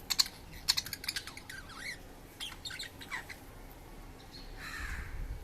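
Budgies chirping in short, sharp calls, a rapid cluster in the first second or so, then scattered chirps. A low rumble comes in near the end.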